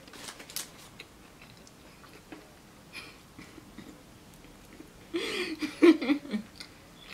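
A person chewing McDonald's food close to the microphone, with small wet mouth clicks and crackles. About five seconds in a short voiced sound with a rising and falling pitch comes from her, a hum or laugh between bites.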